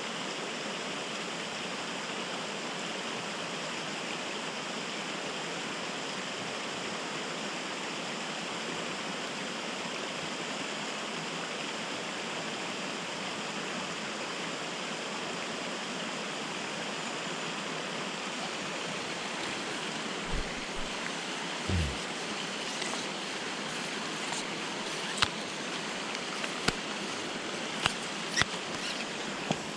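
Steady rushing of a mountain stream's flowing water. Near the end, a few low bumps and sharp clicks.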